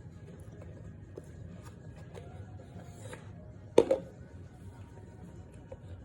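Faint small clicks and crackles, with one loud, short crunch about four seconds in, followed by a smaller one: starch being bitten and chewed.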